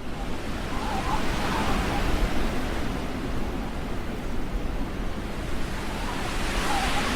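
Snowstorm wind blowing across the microphone: a steady rushing noise with a heavy, fluctuating low rumble.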